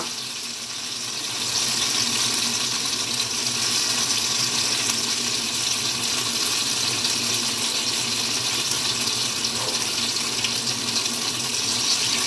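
Tofu frying in hot oil: a steady sizzling hiss.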